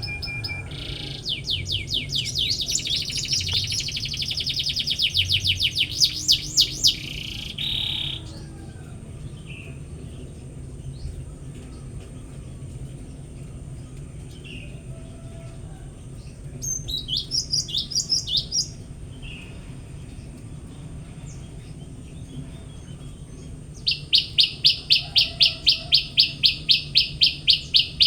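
Songbirds singing in bursts: a long, fast trill through the first seven seconds, a shorter chattering phrase around the middle, and near the end a loud, even run of repeated notes, about four a second.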